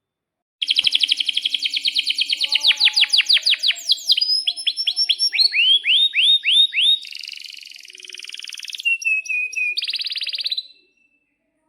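Male domestic canary singing one long song that starts abruptly. It opens with a fast rolling trill, moves into runs of sweeping whistled notes and buzzy phrases, and ends about ten seconds in with another fast trill.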